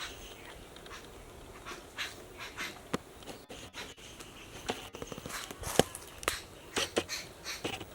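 Footsteps walking on dry ground and leaves: a run of short, uneven crunching steps, most closely bunched in the second half.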